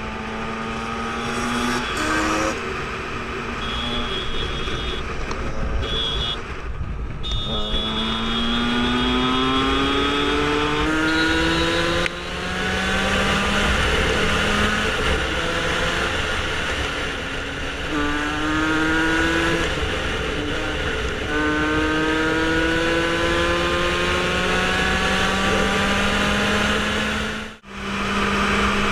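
Motorcycle engine accelerating hard through the gears, its pitch climbing steadily and dropping back at each shift, several times over, with rushing wind noise throughout.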